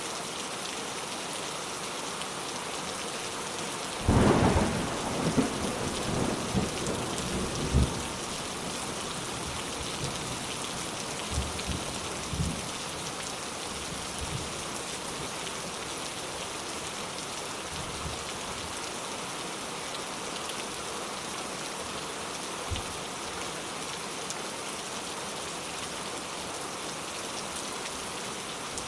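Steady rain falling, with a clap of thunder about four seconds in that breaks suddenly and rolls on with crackling rumbles for several seconds before fading into fainter distant rumbles.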